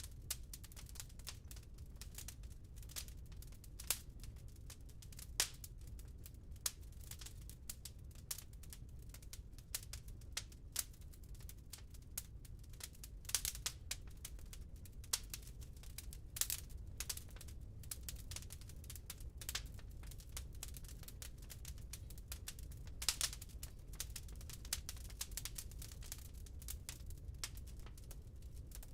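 Burning wood crackling in a fireplace: irregular sharp pops and snaps, a few louder than the rest, over a low steady rumble.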